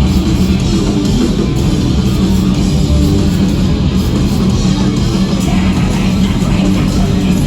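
Loud live rock band playing, heavy distorted electric guitars over bass and drums.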